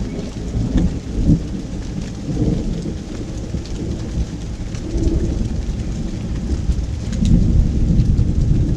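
Steady pouring rain with scattered drips, under a continuous rumble of thunder that swells louder about seven seconds in.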